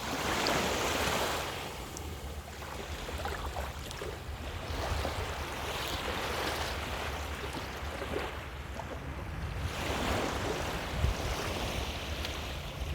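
Small ocean waves washing onto a beach, the wash swelling and fading three times.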